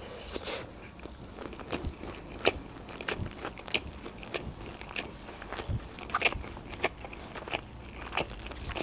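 Close-up chewing of a mouthful of sushi roll: irregular soft crunches and wet mouth clicks, a few each second.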